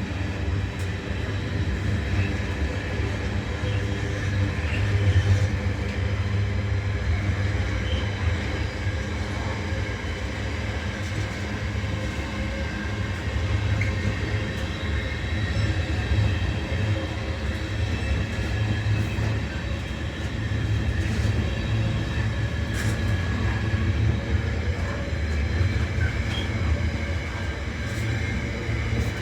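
Class 66 diesel freight locomotive's two-stroke engine running with a steady low drone as its train passes, with a few faint clicks.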